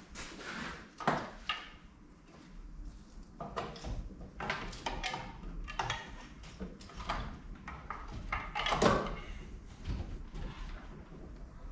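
Scattered clunks, clicks and scrapes of hand tools and car parts being handled during engine-bay work, the loudest knock about nine seconds in.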